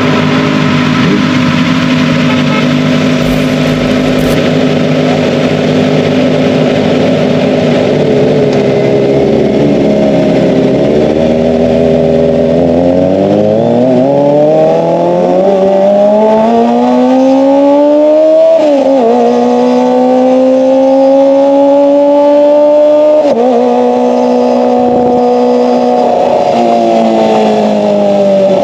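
Kawasaki ZX-25R's 250 cc inline-four engine through an SC-Project exhaust, holding steady revs and then pulling up in long rising sweeps. There is a sharp dip and a climb again about two-thirds of the way through, and the revs fall back near the end.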